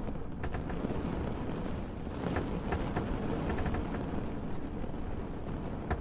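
Steady rain with a deep, even rumble underneath and scattered sharp drips ticking now and then.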